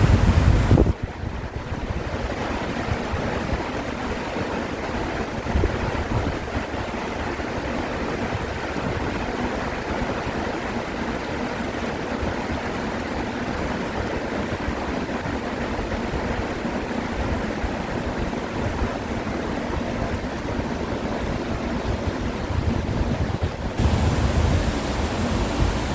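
Mountain stream rushing over rocks in a steady wash of water noise, changing abruptly about a second in and again near the end.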